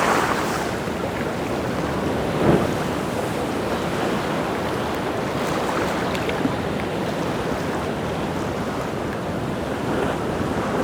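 Rough sea surf washing in continuously, with a louder wave crash about two and a half seconds in.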